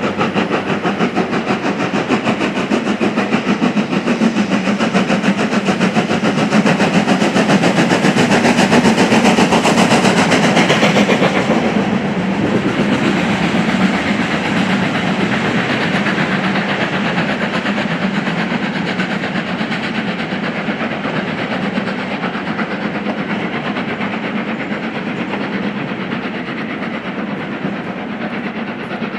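Steam-hauled train running past with a rapid, even beat of wheels on rail and exhaust. It builds to its loudest about ten seconds in, then eases slightly.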